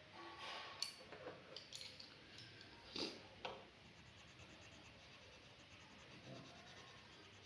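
Faint strokes of a drawing tool scratching across paper, with a few small clicks in the first three seconds or so, then near silence.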